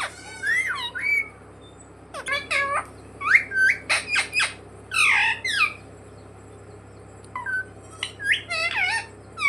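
Pet Indian ringneck parakeet squawking and giving rising-and-falling whistles in several bouts, with a short pause past the middle.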